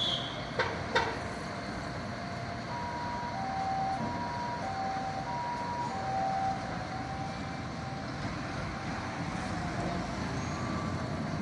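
Japanese emergency vehicle's electronic siren giving a high-low two-tone call, three high-low cycles of about half a second per tone, over steady traffic noise. Two sharp clicks come just before it.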